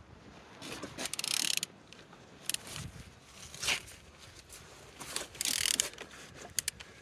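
Used car engine being turned over by hand with a tool on the crankshaft: short bursts of mechanical clicking and scraping, several times with gaps between, as the engine rotates freely.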